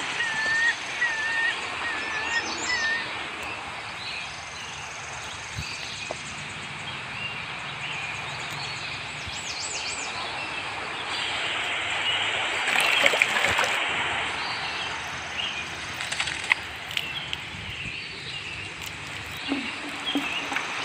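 Outdoor ambience with birds calling over a steady hiss: one bird repeats a short whistled note about six times in the first three seconds, with scattered higher chirps later. A louder stretch of rustling noise comes about two-thirds of the way in.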